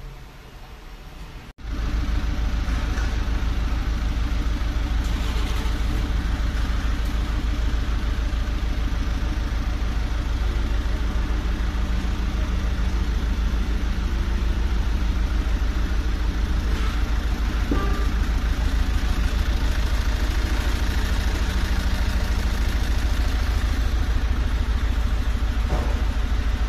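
An engine running steadily at idle with an even, rapid low pulse, starting abruptly about a second and a half in.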